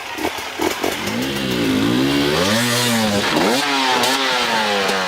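Motocross bike engine revving, its pitch rising and falling with the throttle several times and sliding down near the end. A few sharp clicks come in the first second.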